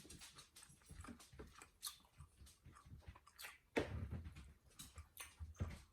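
Chewing and mouth sounds while eating steak and eggs: short, irregular wet clicks and smacks, a little louder about four seconds in.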